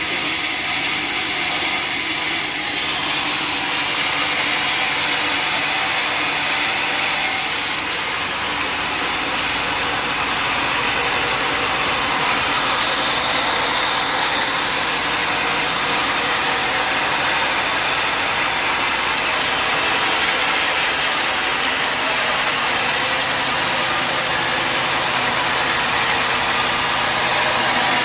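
Sawmill blade cutting steadily through a mahogany log, with the mill's engine running underneath.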